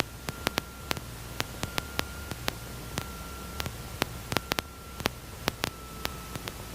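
Electrical hiss on a light aircraft's intercom audio feed, with a faint steady high whine, a low hum and irregular sharp clicks.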